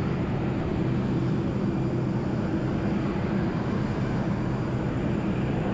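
Steady drone of an Airbus A320's IAE V2527E-A5 jet engines, holding an even pitch with a low hum beneath a wash of noise.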